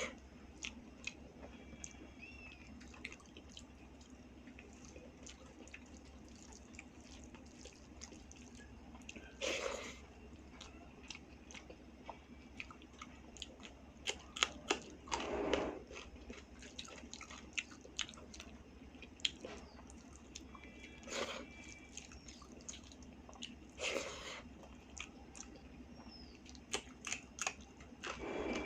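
Close-miked sounds of a person eating rice, dal and vegetable curries: soft chewing and wet mouth clicks, with a few louder chews every few seconds.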